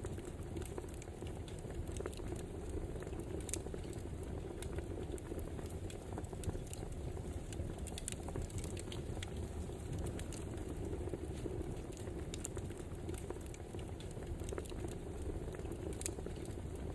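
Wood fire burning: a steady low rush with scattered sharp crackles and pops from the logs.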